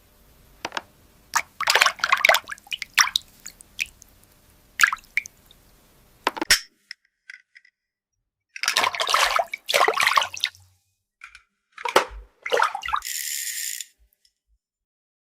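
Small plastic toy pieces handled with water: scattered clicks and short splashing, dripping bursts, with a brief steady hiss near the end.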